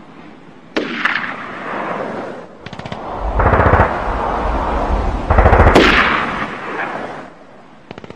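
War sounds: gunfire and explosions. A sharp report about a second in, a quick rattle of shots near three seconds, then two heavy, deep blasts around three and a half and five and a half seconds.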